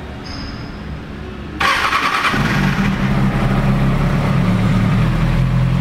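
2007 Kawasaki ZX-6R's inline-four engine cranked on its electric starter, catching about two seconds in and settling into a steady idle through the factory exhaust.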